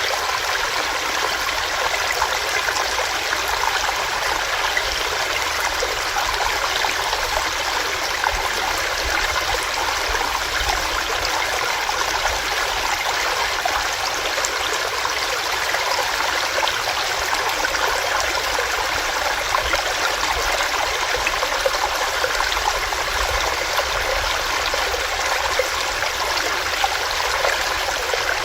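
Small stream running over rocks: a steady, even rush of water with a fine bubbling texture.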